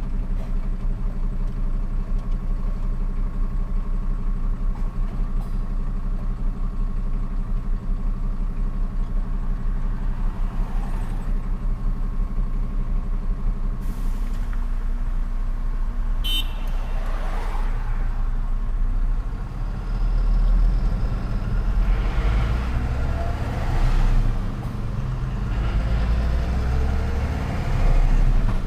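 Truck diesel engine running steadily at a low, even pitch. From about 17 s in it grows louder in repeated swells, as under acceleration, with a brief sharp sound just before.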